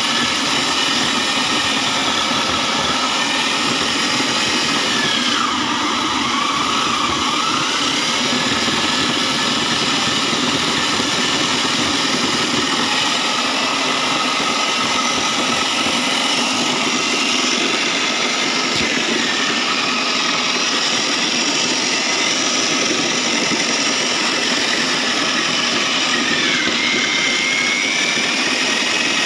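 Foam shredder machine running steadily, a continuous whir with a whine on top that dips in pitch briefly twice, about five seconds in and again near the end.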